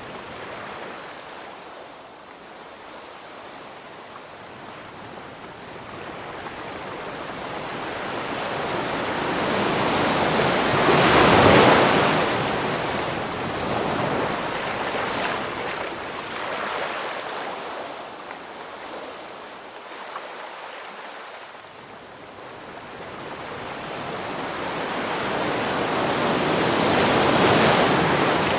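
Ocean waves surging and breaking on the shore: two slow swells of surf noise, the first building to a loud crash about eleven seconds in, the second peaking near the end, with quieter wash between.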